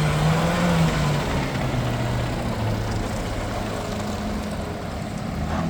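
Diesel engine of a front-loader garbage truck running. Its pitch drops between one and three seconds in, then holds steady at idle.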